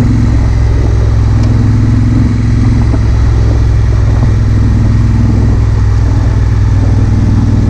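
Honda Africa Twin CRF1000L's parallel-twin engine running at a steady speed under way, heard loud and close from the rider's helmet-mounted GoPro.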